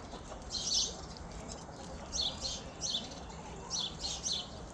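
Birds chirping: three bursts of short, high chirps, a second or more apart.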